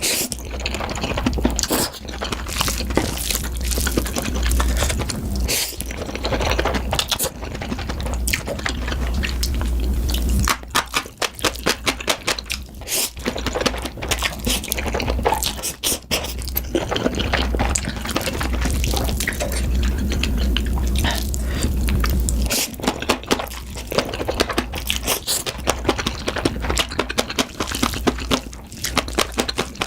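Close-miked eating: wet chewing and mouth smacking with crunchy bites, many small clicks and squishes in quick succession.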